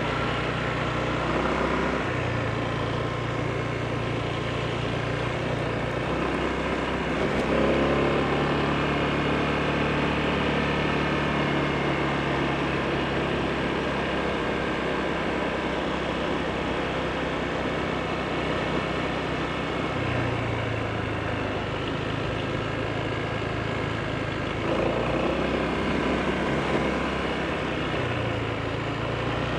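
Honda PCX scooter's single-cylinder engine running under way, its pitch changing with the throttle, stepping up about seven seconds in and again near the end.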